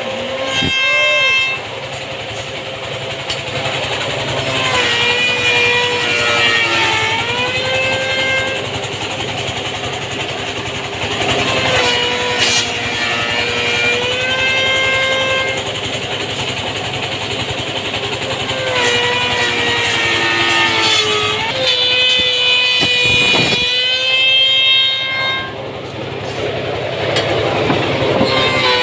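Motor of an automatic wood-working machine running steadily with a high hum, its pitch sagging and recovering every few seconds.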